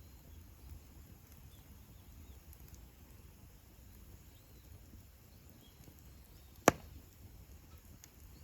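Wood campfire burning with faint crackles over a low rumble, and one sharp, loud pop from the burning wood about two-thirds of the way in.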